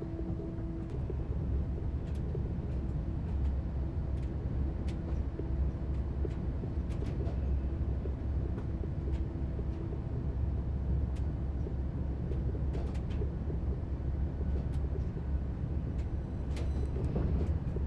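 Train running, with a steady low rumble, a faint hum that comes and goes, and scattered sharp clicks.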